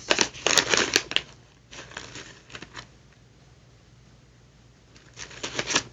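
Snack bags and packaging rustling and crinkling as they are handled and sorted through, in three short spells with a quiet pause in the middle.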